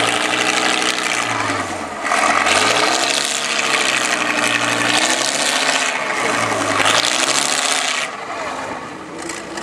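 Competition trial truck's engine revving up and easing off several times under load, with a harsh rasping noise in long bursts.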